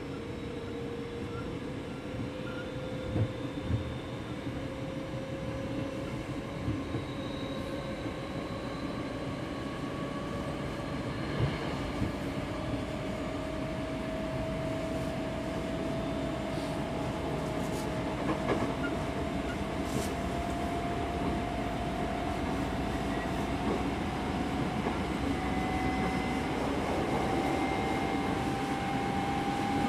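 Hankyu 5300 series electric train running, heard from inside the car: a whine rises slowly and evenly in pitch over the rumble of wheels on rail as the train gathers speed. A few sharp knocks come from the wheels crossing rail joints.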